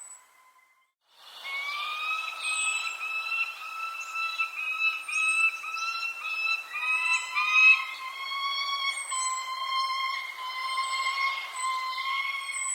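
Birds calling: short, high, falling chirps about every second or two over steady whistling tones and a soft hiss, starting after about a second of silence.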